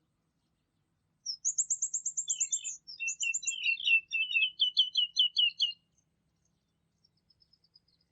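A songbird singing. About a second in comes a fast, high trill, followed by a run of quick, repeated chirping notes lasting about four seconds. A few faint, high notes come near the end.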